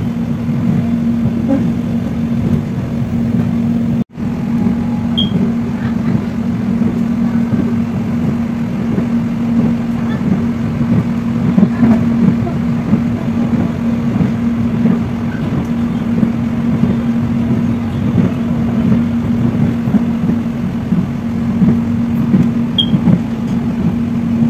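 Electric airport train heard from inside the carriage while running at speed: a continuous rumble of wheels on track with a steady low hum. The sound cuts out for an instant about four seconds in.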